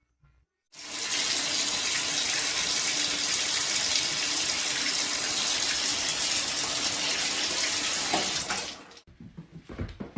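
Water running steadily, like a tap, starting about a second in and cutting off abruptly near the end.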